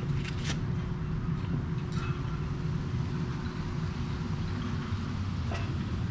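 Wind buffeting a GoPro's microphone: a steady, gusty low rumble, with a few faint clicks.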